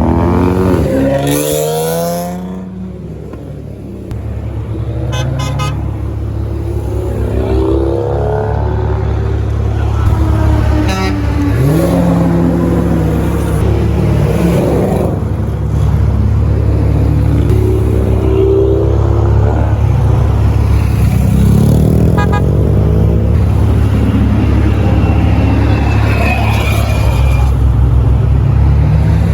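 Muscle car engines running in a convoy, revving up and down again and again over a steady low engine drone, with a horn toot or two.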